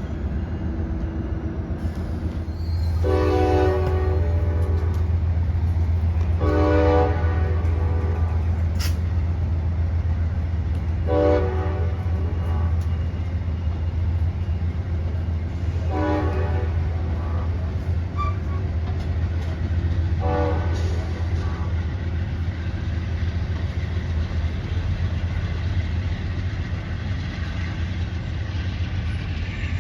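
A train horn sounds five separate blasts, each a chord of several tones: the first two are longer, about two seconds and a second and a half, and three shorter ones follow a few seconds apart. A steady low rumble from the train runs underneath.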